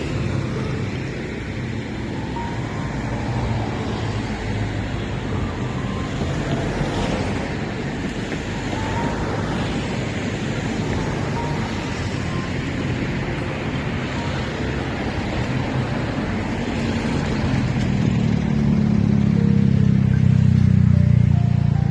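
Steady road-traffic noise, with a vehicle passing close and growing louder near the end.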